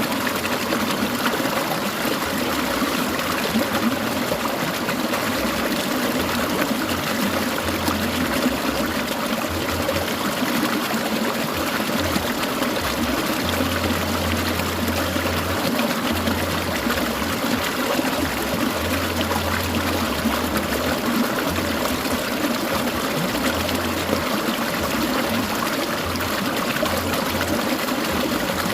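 Clear mountain stream water trickling and splashing steadily over stones.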